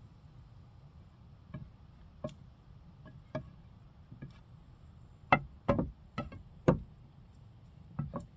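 Irregular sharp knocks, about a dozen, sparse at first, then a loud run of four about five seconds in and two more near the end.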